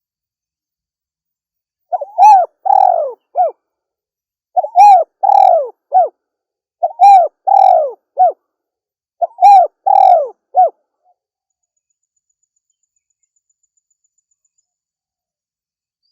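Female spotted dove (tekukur) cooing: four phrases of three or four short, arched coos, about two and a half seconds apart, then a pause of about five seconds.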